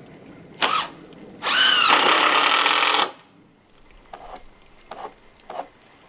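Battery-powered drill running in one loud burst of about a second and a half, which cuts off suddenly, with a short sharp sound just before it and a few light knocks after.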